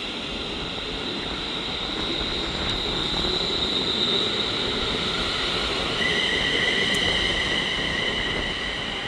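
Class 350 Desiro electric multiple unit pulling out of the station, with a steady high electric whine over rail rumble. The whine changes pitch about six seconds in. The sound grows louder to the middle and fades toward the end as the train moves off.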